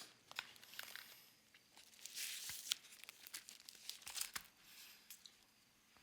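Faint crinkling and tearing of a wrapper being handled, with scattered small clicks and two louder rustles about two and four seconds in.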